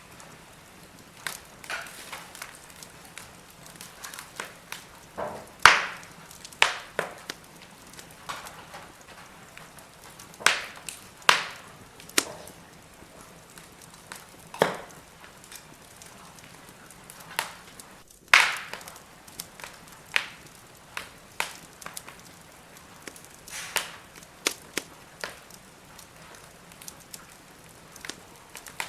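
Firewood burning: irregular sharp crackles and pops over a soft hiss, the loudest snaps about six, eleven and eighteen seconds in.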